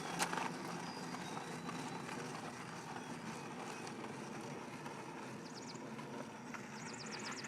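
Steady outdoor background noise, with a rapid trill of short high chirps twice near the end.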